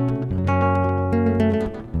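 Acoustic guitar playing strummed chords over held bass notes, with the chord changing about a third of a second in and again near the end.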